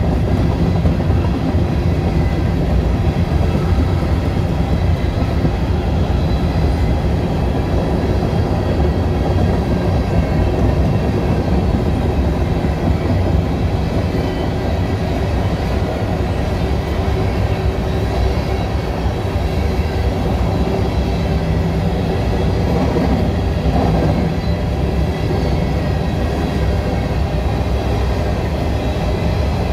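Norfolk Southern freight train's covered hopper cars rolling past, steel wheels running steadily on the rails.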